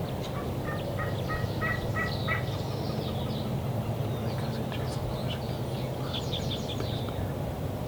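Wild turkey calling: a run of about six evenly spaced yelping notes in the first two seconds, then a quick string of higher, shorter notes about six seconds in, over a steady low rumble.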